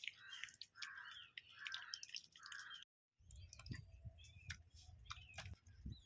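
Faint wet squelching and clicking of hands mixing chicken in chili-paste marinade, with a crow cawing four times in the background during the first half. The sound drops out completely for a moment near the middle.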